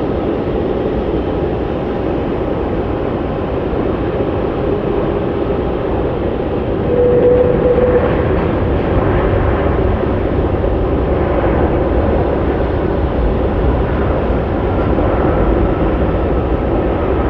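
Jet airliner engines running, a steady rumble with a faint whine over it, getting a little louder about seven seconds in.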